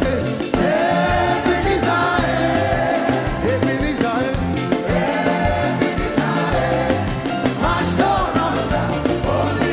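Live gospel praise music: a band with a driving bass line and steady drum beat, with voices singing over it.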